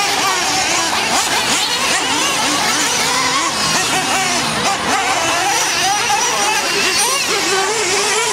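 Several nitro-powered RC monster trucks racing, their small glow-fuel engines whining and revving up and down over one another without a break.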